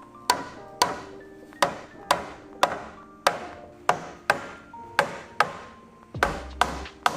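Repeated sharp blows on wooden boards, about two a second, as the dowel-jointed Japanese cypress (hinoki) boards are knocked together. Background music with held notes runs underneath.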